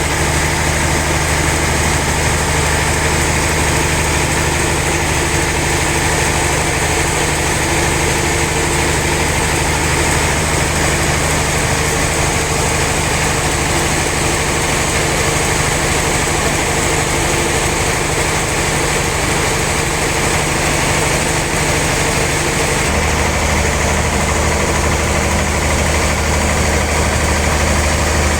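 Sawmill machinery running steadily with an engine-like hum, its low tone deepening and strengthening about three-quarters of the way through.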